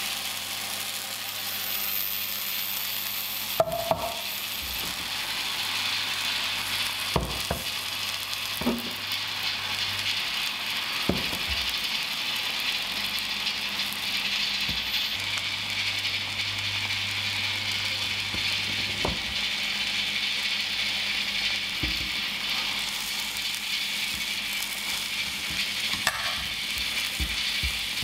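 Chive-and-egg pancake batter sizzling steadily as it fries in a pan. A few short knocks and clicks come at irregular intervals, over a low steady hum.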